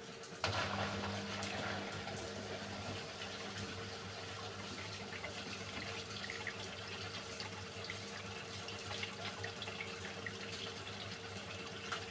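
Beko WMY81283LMB2 washing machine taking in water: about half a second in, the inlet valve opens and water starts rushing into the machine with a steady hum underneath, running on evenly.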